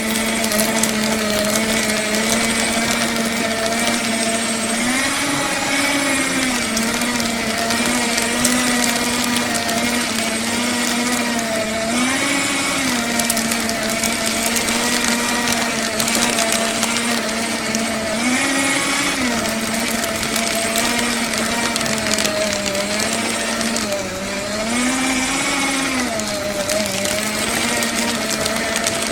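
Electric paper shredder running continuously, its motor giving a steady hum and whine over a gritty cutting hiss. About four times, near 5, 12, 18 and 25 seconds in, the motor pitch briefly swells up and back down.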